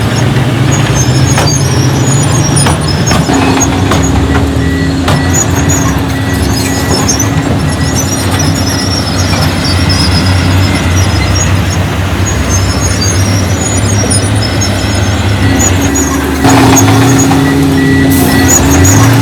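Diesel engines of heavy earthmoving machinery running, with scattered knocks and clanks. About sixteen seconds in the engine note changes and gets louder.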